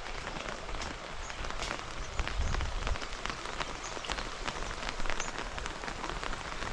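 Steady rain falling, with many separate drops striking close by as sharp ticks.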